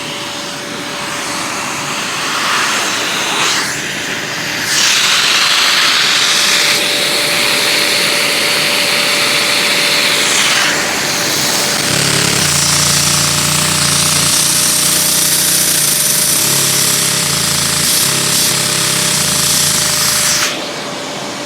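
Lego Technic two-cylinder dual-action vacuum engine running on the suction of a vacuum cleaner, the engine's noise mixed with the vacuum's steady whine and rush of air. It gets louder about five seconds in and cuts off about a second before the end.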